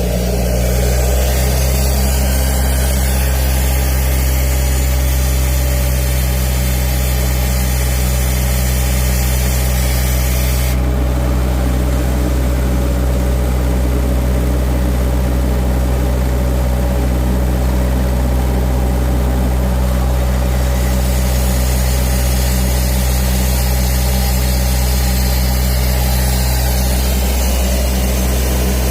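Compressed-air industrial vacuum running: a steady low machine hum under a loud rush of air. The high part of the hiss dulls abruptly about a third of the way in and comes back about ten seconds later.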